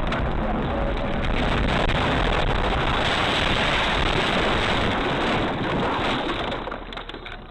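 Steady rushing road and wind noise of a moving car, dropping away near the end.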